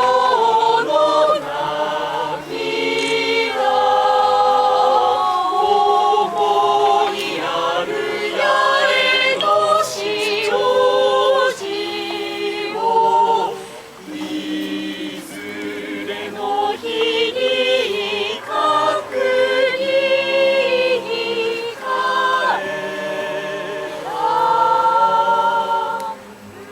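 A choir singing a melody in several voices, with held notes that step from pitch to pitch. The singing breaks off shortly before the end.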